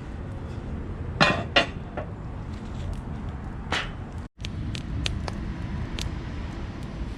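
A few sharp knocks, two close together about a second in and a third near four seconds, over steady low rumbling background noise, with fainter ticks later on. The sound drops out for an instant just after the third knock.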